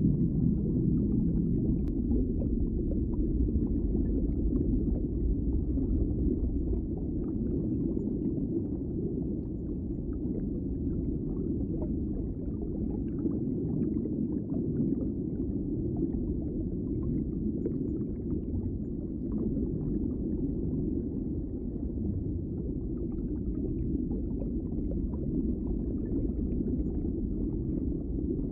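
Underwater ambience: a steady, muffled low rumble with faint scattered crackles.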